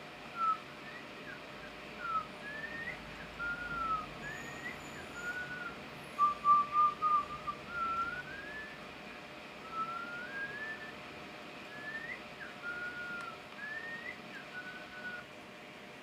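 Whistling: a slow run of clear, pure whistled notes, many sliding up or down in pitch, with a quick group of four short repeated notes about six seconds in.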